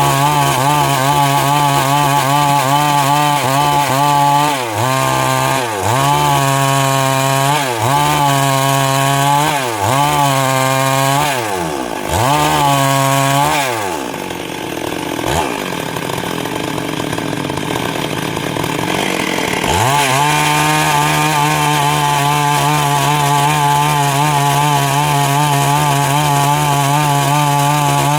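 Stihl MS 382 two-stroke chainsaw running hard, its engine speed dipping and recovering every couple of seconds. About halfway through it falls to a lower speed for roughly six seconds, then runs steadily at high speed again.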